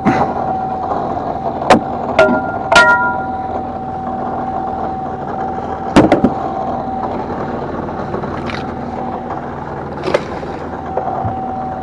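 Fishing boat's engine running with a steady whine. Several sharp knocks and clanks on board come about five times, one of them ringing briefly.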